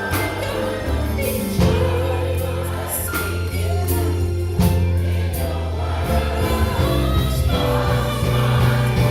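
Gospel choir singing in harmony with band accompaniment: deep, sustained bass notes and recurring cymbal hits.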